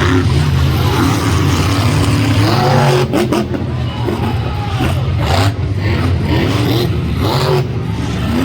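Monster truck engine running loud, its pitch rising and falling as it revs.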